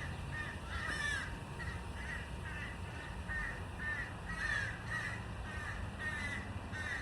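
Birds calling over and over, short downward-sliding calls about two a second, over a steady low background rumble.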